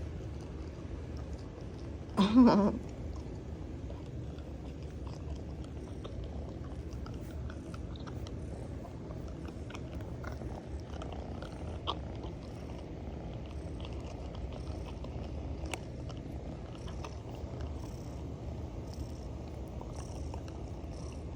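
Domestic cat purring steadily and loudly, a continuous low rumble. About two seconds in there is one short, loud call with a bending pitch.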